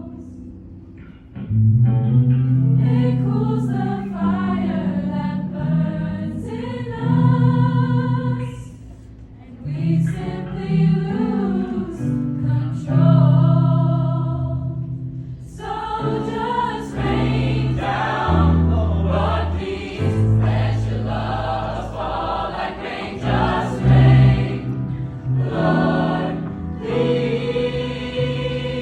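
Combined a cappella choir singing, voices only with no instruments. The singing drops away briefly about a second in and again around a third of the way through, and the parts grow fuller and denser from about halfway on.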